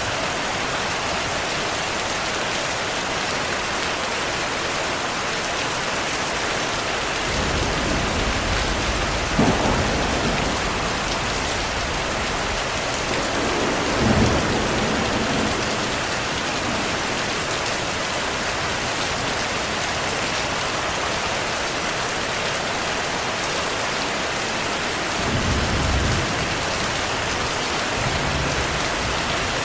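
Heavy rain falling steadily, with thunder rumbling several times: a long low roll from about a quarter of the way in with two sharper peaks, and another shorter rumble near the end.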